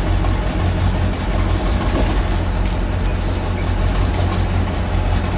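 Car engine running steadily at low speed while the car is manoeuvred slowly.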